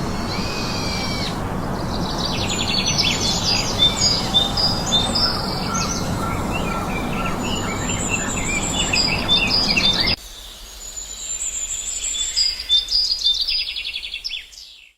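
Several birds chirping and singing, with quick chirps and rapid trills, over a steady rushing background noise. The background noise cuts off abruptly about ten seconds in, leaving the birdsong alone until it fades out at the end.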